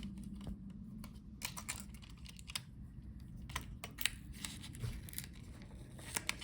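Irregular light clicks and taps of hands and small tools handling a laptop's internal plastic and metal parts, with faint crinkling as the Wi-Fi antenna cable is freed from its routing through the cooling fan.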